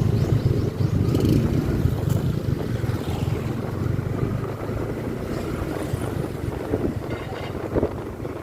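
Motorcycle engine running while riding, with wind rushing over the microphone; a little quieter in the second half.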